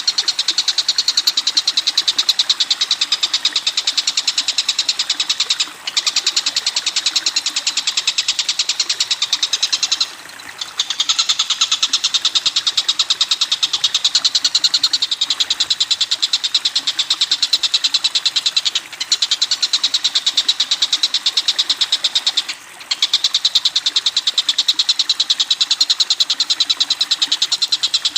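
A bird's rapid, even rattling call, many pulses a second, kept up in long runs with brief breaks about 6, 10, 19 and 23 seconds in.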